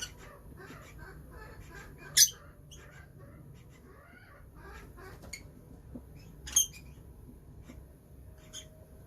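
Lovebirds chattering with a steady stream of short high chirps, broken by a few loud sharp shrieks: one at the start, one after about two seconds and one about two-thirds of the way through.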